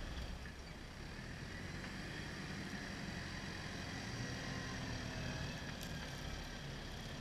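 Fendt 312 Vario tractor's diesel engine running steadily.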